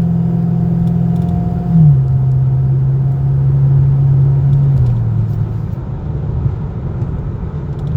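Pontiac G8 GT's V8, fitted with long-tube headers and a 3-inch cat-back exhaust, heard from inside the cabin while driving. Its deep drone holds a steady pitch, then steps down about two seconds in and again about five seconds in, like upshifts. After the second step it is a little quieter.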